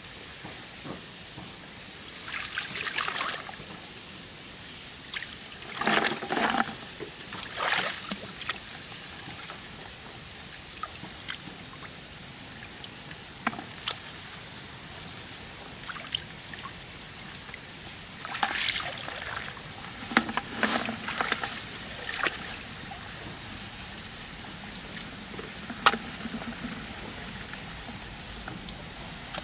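Water splashing and trickling in irregular bursts over a steady background hiss, with a few sharp clicks between them.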